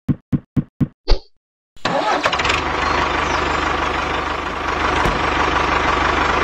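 Engine starting: a few short chugs about four a second, a brief pause, then it catches and runs loud and steady with a dense rattle.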